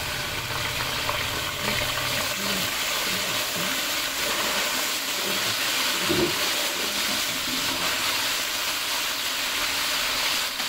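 Yogurt sizzling in hot oil in a large metal cooking pot: a steady, loud frying hiss as its water boils off.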